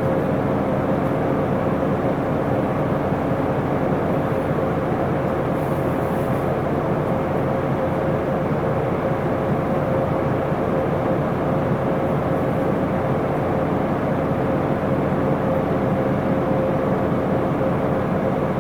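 Isuzu Erga city bus's diesel engine and drivetrain heard from inside the passenger cabin while the bus is under way: a steady drone with a constant high whine running through it.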